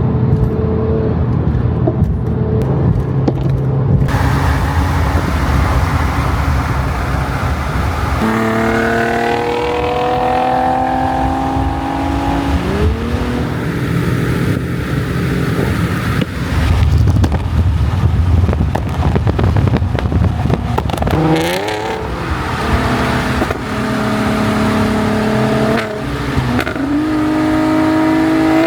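Car engines accelerating hard. The pitch climbs and drops back again and again, as at gear changes, with a quick sharp rev about two-thirds of the way in.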